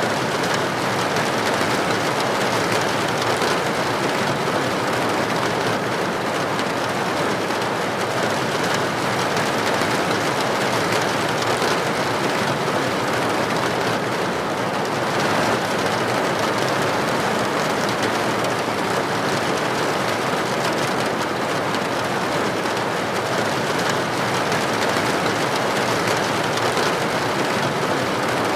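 Steady, heavy rain falling, an even hiss of drops on a hard surface.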